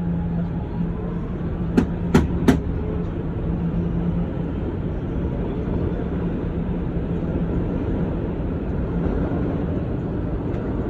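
R211A subway car running between stations: a steady rumble of wheels on rail with a low motor tone that fades out after about four seconds, and three sharp clacks from the wheels on the track about two seconds in.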